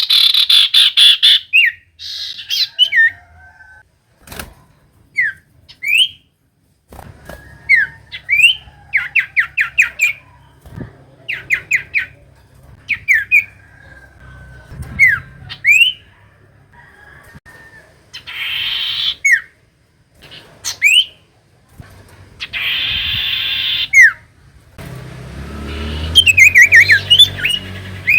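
Common iora (cipoh) calling: short rising whistles and quick trilled runs of chirps, broken by several harsh, buzzing chatters. A brief near-silent gap comes a few seconds in.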